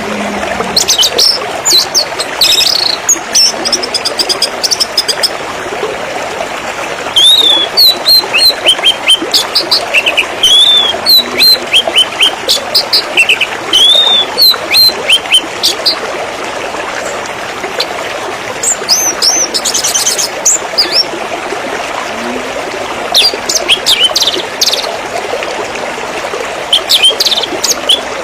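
Small songbirds chirping and trilling in quick bursts over a steady trickle of running water. The bird calls come in bunches of short arched chirps and rapid clicking trills, with brief lulls in which only the water is heard.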